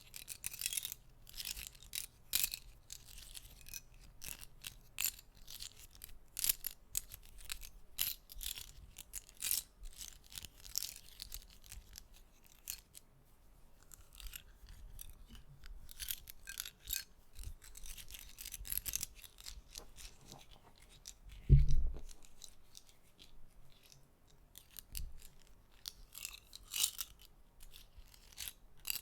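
Close-miked ASMR clicking: small objects are handled right at the microphone, making irregular soft clicks and scratchy taps. There is one louder low thump about three-quarters of the way through.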